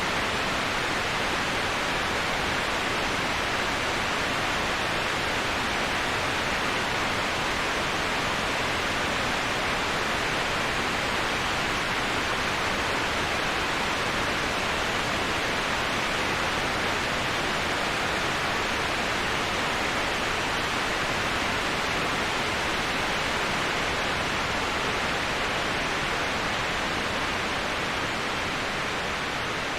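Steady, even rushing of a waterfall, a continuous hiss with no distinct splashes, strongest in the upper-middle range; it eases slightly near the end.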